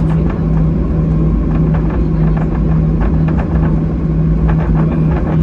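Cabin noise inside a Boeing 737-800: a loud, steady rumble with a low, constant hum, dotted with frequent light rattles and knocks from the cabin.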